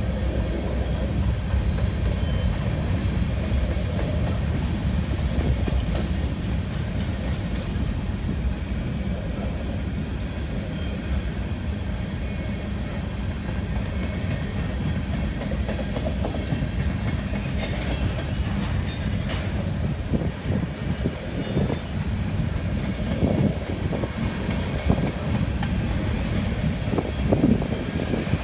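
Freight train of covered hopper cars rolling past on the rails: a steady low rumble of the wheels, with sharp clacks that come more often in the second half.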